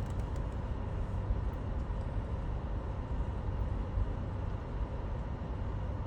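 Steady low rumble of vehicle engines idling in stopped traffic, with no sudden changes.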